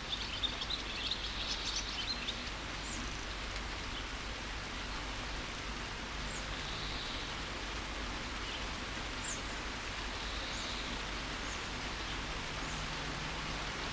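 Steady rain falling, with birds chirping over it: a burst of quick high chirps in the first two seconds, then short scattered calls and soft trills.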